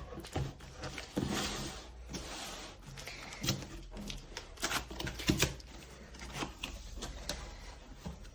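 Cardboard box and packaging being opened and handled: irregular rustling, scraping and light knocks.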